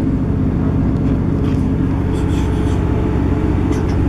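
Steady running noise inside a Class 158 diesel multiple unit at speed: the underfloor diesel engine's even hum mixed with the rumble of wheels on the track, heard from inside the carriage.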